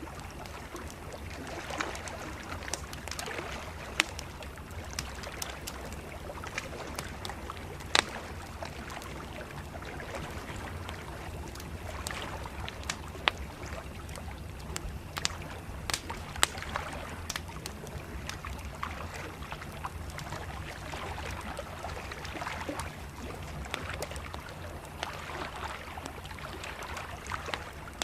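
Wood campfire crackling, with frequent small snaps and several sharp, louder pops, over the gentle lapping and splashing of river water at the bank.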